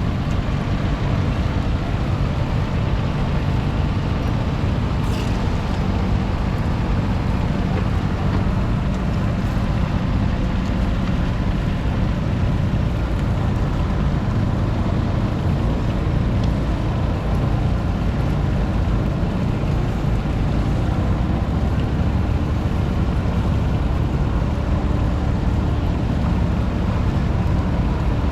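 Yanmar KE-140 tractor's 0.7-litre three-cylinder diesel engine running steadily.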